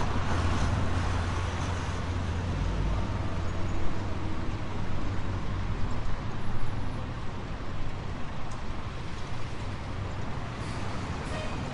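City street traffic: a steady wash of passing cars and engines, with a heavy low rumble from a nearby vehicle in the first few seconds that eases off after.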